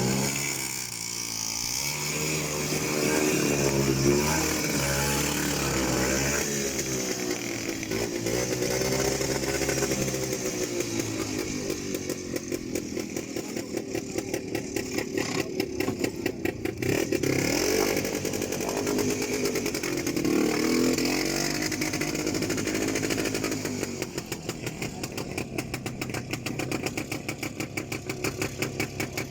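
Small off-road vehicle engine revving hard and unevenly, its pitch rising and falling as it labours through deep mud under full throttle. About 24 seconds in it drops to a quieter, evenly pulsing low-rev beat.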